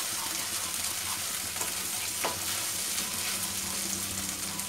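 Boiled taro root (arbi) pieces sizzling as they fry in hot oil in a kadhai, with a spatula stirring them and scraping the pan now and then.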